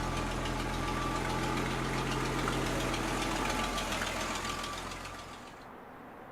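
1978 Ford F-150 pickup engine idling steadily, then dying away and stopping about five seconds in.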